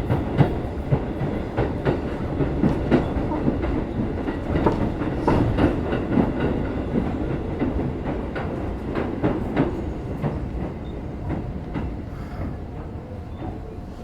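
Keikyu 1500 series motor car running over the rails, its wheels clicking sharply and irregularly over rail joints above a steady rumble. The clicks thin out and the rumble grows quieter over the last few seconds as the train slows.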